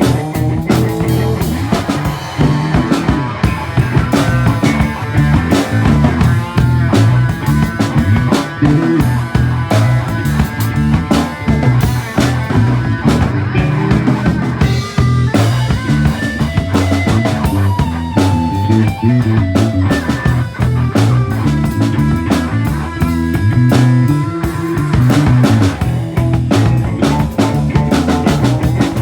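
Full-band rock or funk music: guitar and drum kit over a busy bass line, playing steadily.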